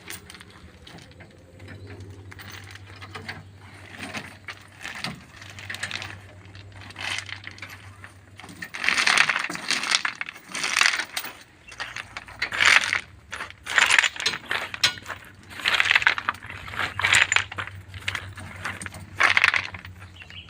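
Repeated rattling, clinking strokes, roughly one every second or so from about halfway through, over a low steady hum that comes and goes.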